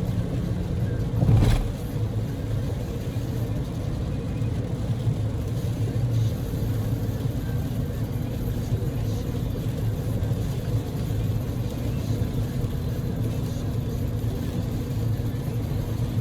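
Inside a Daihatsu Move (L150S) kei car driving in heavy typhoon rain: a steady rumble of the 660 cc three-cylinder engine and the tyres under a hiss of rain. About a second and a half in there is a brief, louder whoosh.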